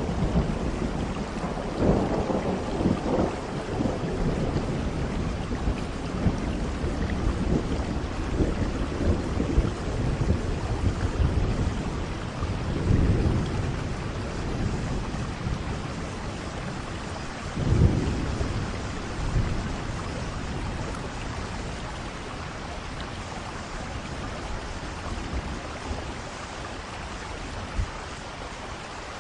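Steady rain falling, with rolls of thunder rumbling over it: a long rumble in the first few seconds, more about halfway through, and a sharper crack-and-roll a little after, fading to rain alone toward the end.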